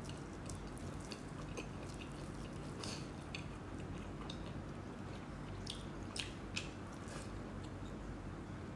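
Close-miked chewing and mouth sounds of someone eating rice and meat, with scattered small wet clicks, over a steady low hum.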